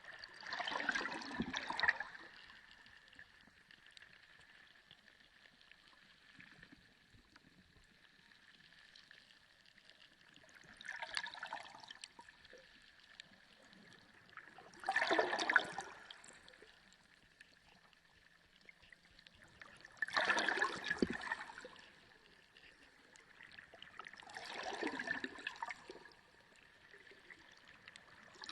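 Underwater ocean sound: rushes of bubbling, gurgling water a second or two long come every few seconds, five in all, over a faint steady high hum.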